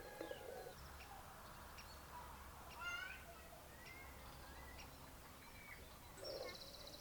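Birds chirping faintly, with scattered short calls and a quick run of rising chirps about three seconds in.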